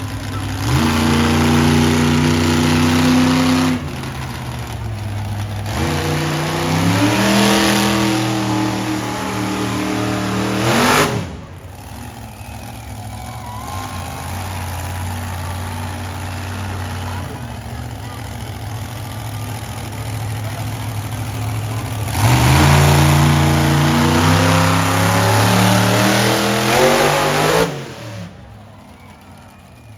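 Monster truck engine revving in three long bursts, rising in pitch and running lower and steadier between them; the last rev cuts off sharply near the end.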